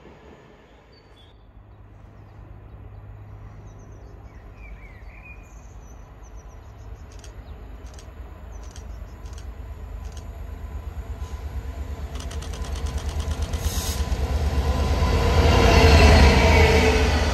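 A train approaching on the main line, growing steadily louder under a low, steady drone. Its wheels clatter in a quickening rhythm as it closes in and reaches its loudest just before passing.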